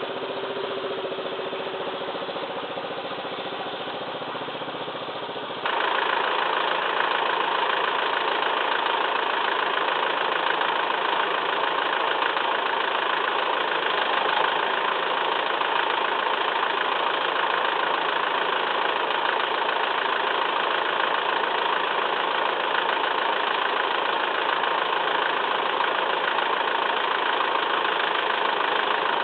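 Massey Ferguson 2635 tractor's diesel engine running steadily. About six seconds in the sound steps up abruptly louder and brighter, then holds steady.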